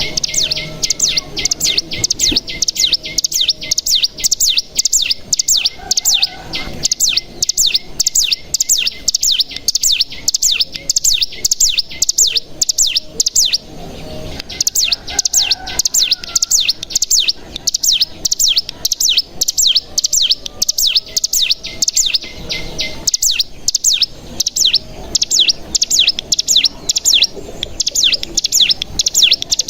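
Ciblek gunung (cigun) singing its fast 'ngebren' song: a long run of rapid, repeated high downward-slurred notes, broken by short pauses about midway and again later.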